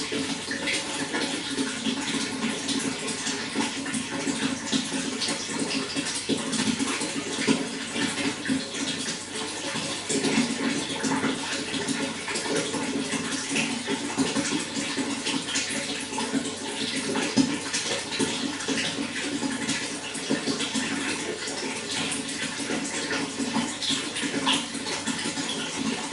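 Running water: a steady, unbroken rush of flowing water with many small splashes.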